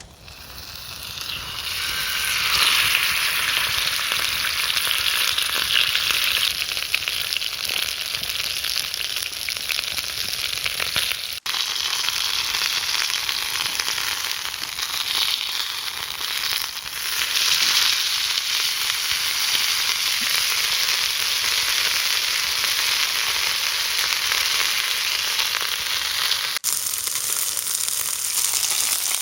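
Chicken thighs frying in a pan, with a steady hissing sizzle that builds up over the first couple of seconds and then holds. It breaks off for an instant twice.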